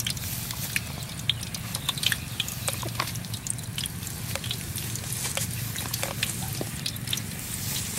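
Banana fritters frying in a wok of hot oil: a steady sizzle with many short scattered pops and crackles, over a low steady hum.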